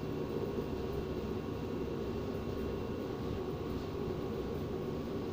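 Steady background machine hum with faint steady tones, even throughout, with no knocks or clicks.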